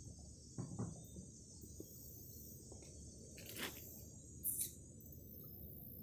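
Insects chirring steadily at a high pitch outdoors, with a few brief rustles or bumps about half a second in and again around the middle.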